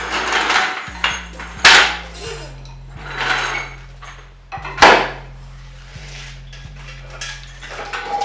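Metal clanking in a workshop: two sharp knocks about three seconds apart, with softer clatters and scrapes around them.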